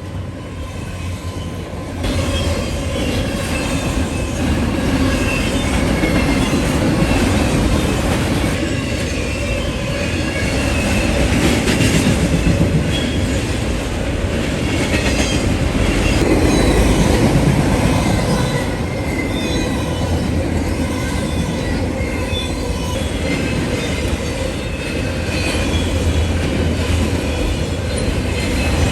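Empty autorack freight train rolling past close by: steel wheels running and clattering on the rails, with high wheel squeal through much of it. It gets louder about two seconds in.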